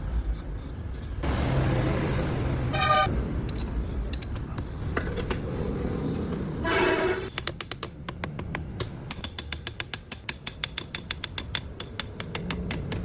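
Passing traffic with two short vehicle horn toots, followed by a fast run of light metallic clicks or taps, about eight a second.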